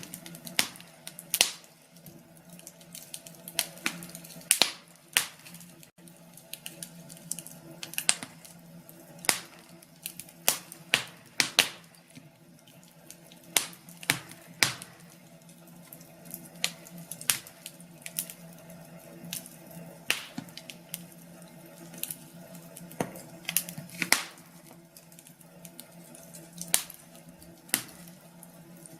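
Wood fire crackling in a fireplace: irregular sharp pops and snaps, one to three a second, over a steady low hum.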